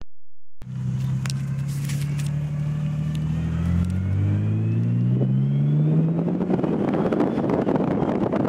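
Nissan 300ZX Twin Turbo under way in a low gear, its engine note climbing as it accelerates with a thin whine rising in pitch along with it. This is the whine of a new 98+ J-spec manual transmission, which has grown loud in low gear. From about six and a half seconds in, road and wind noise take over.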